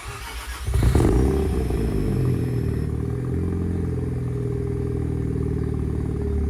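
Mazda FD RX-7's twin-turbo 13B rotary engine cold-starting. The starter cranks briefly and the engine catches under a second in with a loud rev flare, then settles into a steady idle.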